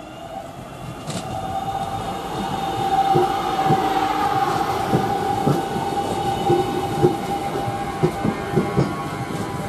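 Train running along the line: a steady whine grows louder, and from about three seconds in the wheels click irregularly over the rail joints.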